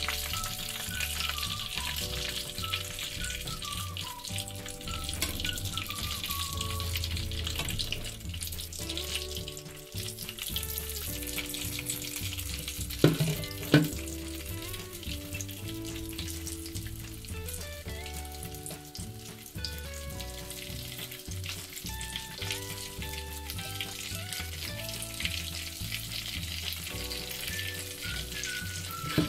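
Flour-battered mushrooms deep-frying in hot oil in a small pan, a steady sizzle throughout, over background music. Two sharp knocks sound about halfway through as pieces are handled with tongs.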